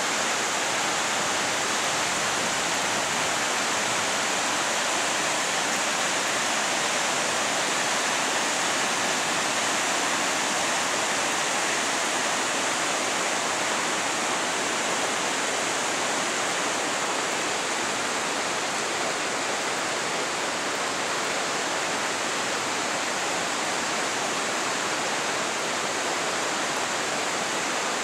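Flash-flood water rushing down a wadi, a steady, even rush with no breaks.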